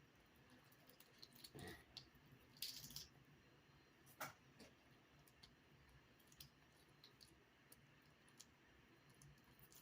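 Faint clicks and soft wet squishes of a cooked blue crab being pulled apart by hand, with a few louder cracks near the start and about four seconds in.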